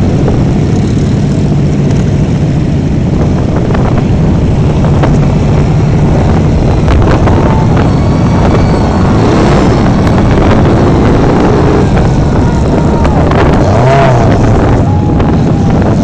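Motorcycle engines running loud and steady.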